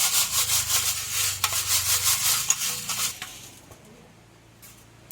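Hand-turned stone quern (ragi kal) grinding whole urad dal: a gritty stone-on-stone rasp for about three seconds, then fading to a faint scrape.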